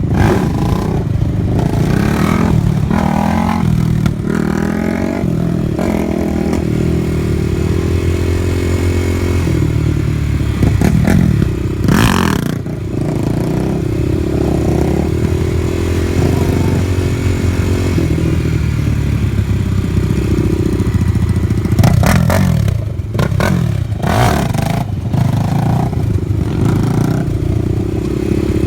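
Suzuki LTR 450 ATV's single-cylinder four-stroke engine revving up and down over and over under throttle, with a few brief loud rushing bursts about twelve seconds in and again near twenty-two seconds.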